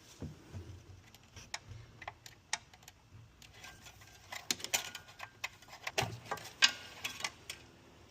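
Engine oil dipstick being pulled from its tube, wiped and pushed back in: a scattered run of light clicks and rattles, busiest in the second half.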